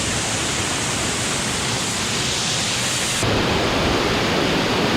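Waterfall roar: a steady rush of falling water. About three seconds in it changes abruptly to a lower, heavier rush.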